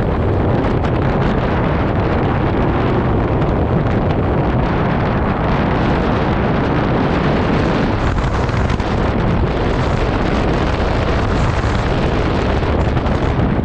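Strong wind rushing over the microphone of a moving motor scooter: a loud, steady, even rumble with no clear engine note.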